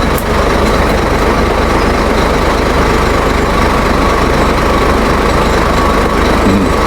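Diesel engine running steadily at a constant speed, with an even low hum.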